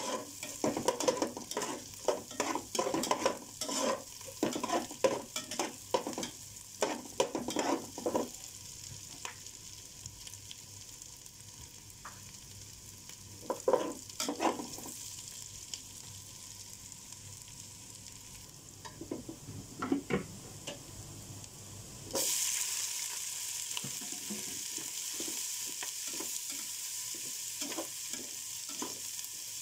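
Metal slotted spoon stirring and scraping in an aluminium pot of garlic frying in butter, with quick scraping knocks for the first several seconds and a few more later. About 22 seconds in, a louder sizzle starts suddenly as shrimp go into the hot pot, and it carries on under lighter stirring.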